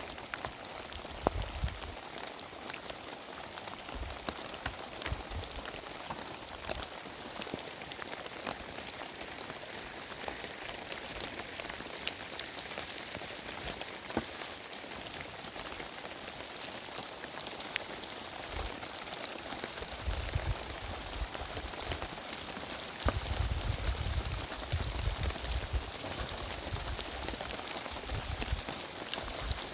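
Heavy rain falling steadily, a dense hiss with many sharp individual drop impacts. Low rumbling swells come in about twenty seconds in and again from about twenty-three seconds in.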